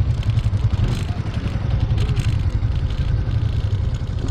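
Yamaha NMAX scooter being ridden: its engine runs steadily under a heavy low wind rumble on the microphone, with scattered light clatter from the rough road.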